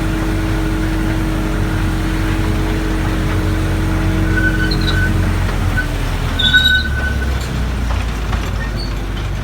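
Driving Creek Railway narrow-gauge train running, a steady engine hum whose note drops about two-thirds of the way through, with a few short high squeaks in the middle.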